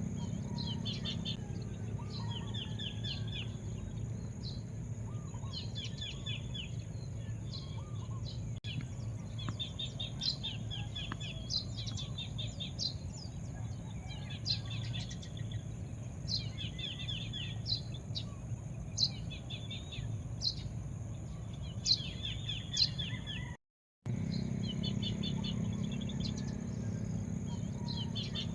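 Birds chirping: repeated short trilled phrases and sharp high chirps, over a steady low rumble and a thin steady high hiss. The sound cuts out completely for a split second near the end.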